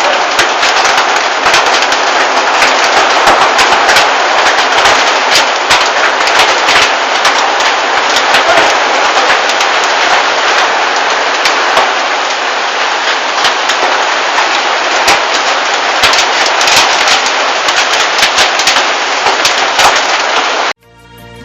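Heavy monsoon rain pouring down, a dense hiss full of fast crackling drop impacts. It cuts off suddenly near the end.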